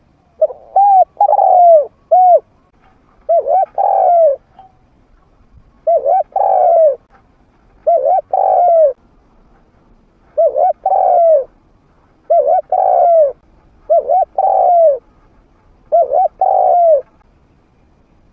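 A trained decoy spotted dove cooing: eight short phrases of several coo notes each, about one every two seconds. This is a territorial call that draws wild spotted doves in to fight.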